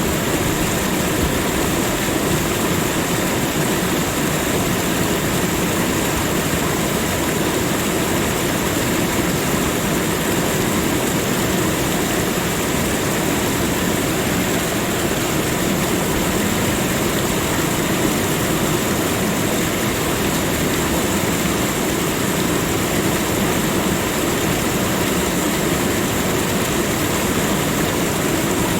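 Steady nature ambience: an even rushing noise with a faint high hiss on top, unchanging and without distinct events.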